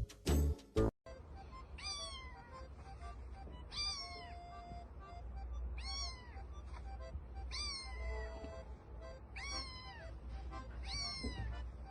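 Brief music that cuts off about a second in, then a cat meowing again and again: about six meows roughly two seconds apart, each rising then falling in pitch.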